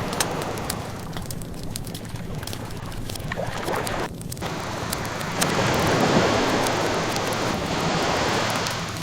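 Ocean waves washing in, one wave swelling about halfway through and easing off near the end, with the scattered pops and crackles of a burning wood fire over it.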